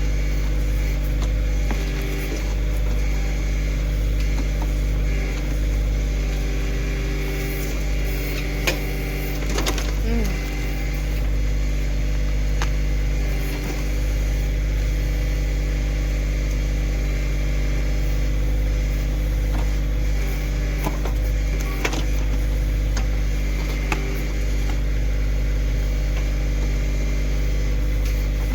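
Kioti CK2610 compact tractor's three-cylinder diesel engine running steadily under backhoe work, with a few sharp clicks or knocks.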